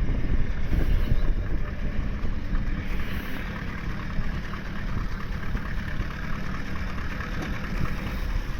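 Standard Fordson tractor engine running steadily, a continuous low rumble.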